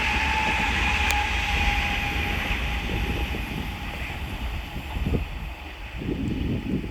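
Pair of coupled class 387 electric multiple units running past on the rails, the train noise and a faint steady whine dying away over the first six seconds as they recede.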